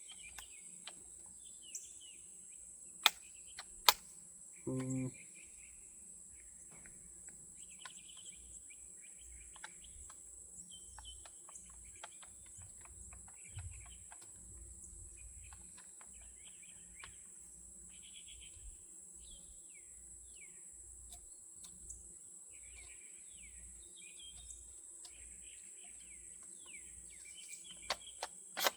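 Outdoor insect drone, a steady high-pitched buzz, with birds chirping throughout. A few sharp clicks come in the first four seconds, two of them loud, and a brief low buzz about five seconds in.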